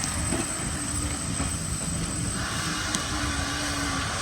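Class 50 diesel locomotives running, with the steady low rumble of their English Electric 16-cylinder engines. A higher sound joins about halfway through.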